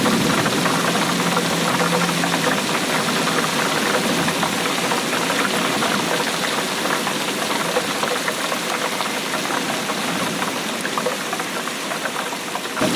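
Steady rainfall: an unbroken, dense crackle of drops.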